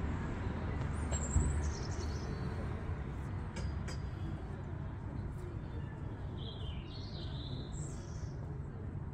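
A bird chirping, once briefly about a second in and again in a longer run of high chirps near the end, over a steady low outdoor rumble.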